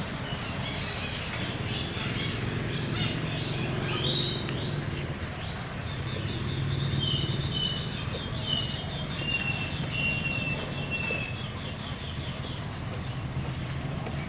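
Wild birds calling: scattered chirps in the first few seconds, then a run of short clear whistled notes that step slightly lower over about four seconds. Under it runs a steady low background hum.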